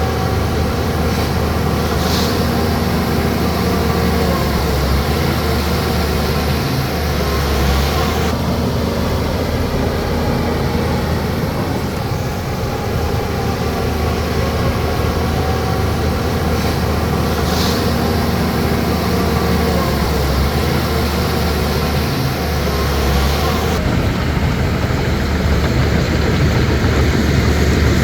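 Bulldozer's diesel engine running steadily under load, its pitch shifting slightly, with two brief high-pitched hisses.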